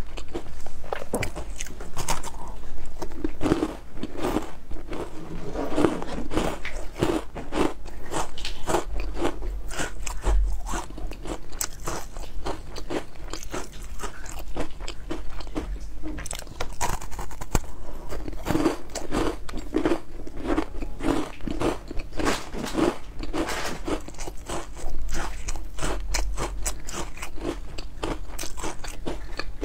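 Close-miked crunching as someone bites into and chews crisp, crunchy food, many crunches a second coming in clusters.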